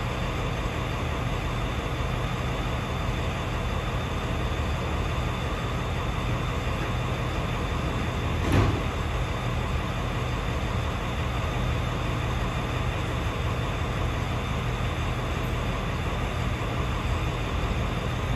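Steady idling vehicle engine hum, with one brief knock about eight and a half seconds in.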